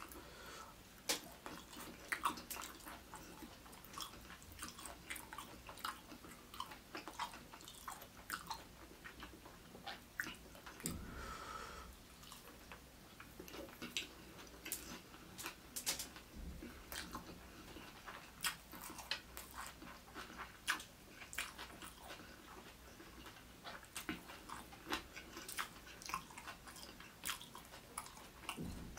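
Close-miked chewing of a mouthful of fried rice: soft, irregular wet clicks and mouth sounds of eating, faint throughout.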